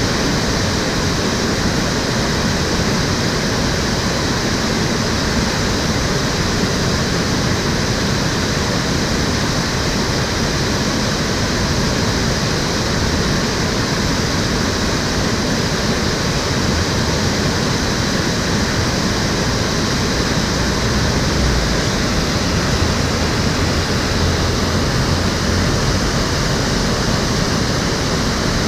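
Water of an urban stream flowing and rushing steadily, an unbroken, even noise with no changes.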